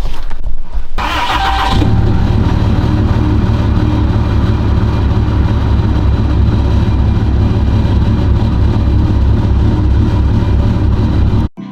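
An engine starts about a second in and then idles steadily with a rapid low pulsing, cutting off suddenly near the end.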